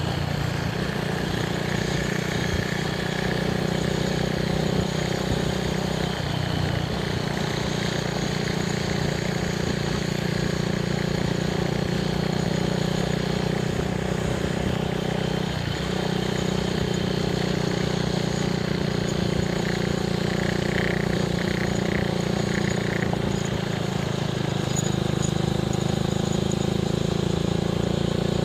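Honda Grom's small single-cylinder four-stroke engine running steadily while riding at an even speed, a constant low drone with no revving.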